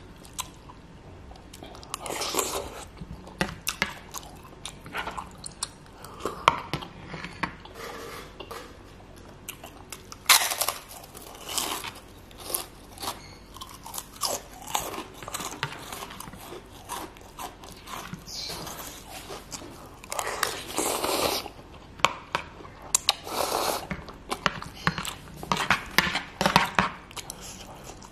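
Close-miked eating of instant noodles and tekwan fish balls: steady chewing and biting with many sharp wet mouth clicks, and a few longer noisy bursts.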